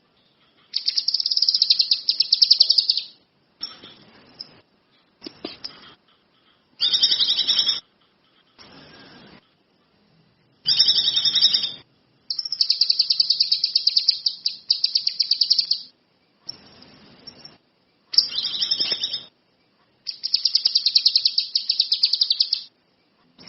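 Kinoi songbird singing a run of high, fast trilled phrases, each lasting one to three seconds, separated by short pauses.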